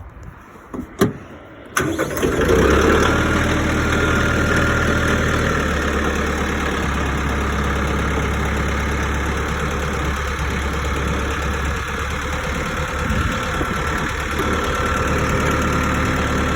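McCormick X1.45 tractor's 45 hp diesel engine starting up. A sharp click comes about a second in, the engine catches a little under two seconds in, and it then idles steadily.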